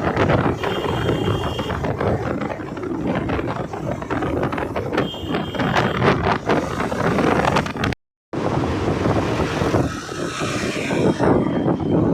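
Wind buffeting the microphone and road noise from a Honda SP motorcycle riding at speed. The sound drops out for a moment about eight seconds in.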